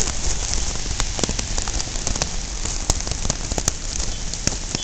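Heavy tropical rain pouring down: a steady dense hiss, with sharp ticks of single drops striking close by.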